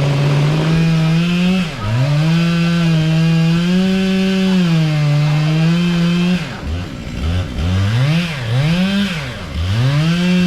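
Husqvarna 500i two-stroke chainsaw cutting through a tree trunk at high revs, its pitch mostly steady under load. From about six and a half seconds in, the engine speed swings up and down several times, then settles back to a steady pitch near the end.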